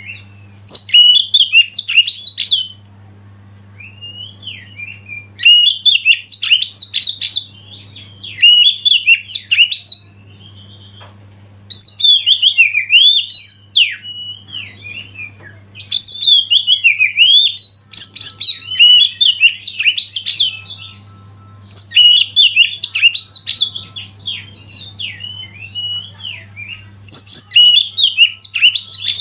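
Oriental magpie-robin (kacer) singing loud, varied whistled song phrases in bursts of a few seconds with short pauses between them, over a faint steady low hum.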